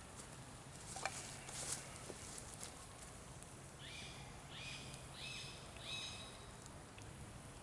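A bird calling a short run of four evenly repeated notes, each starting with a quick upward slide, over faint outdoor background with a few scattered clicks and crackles near the start.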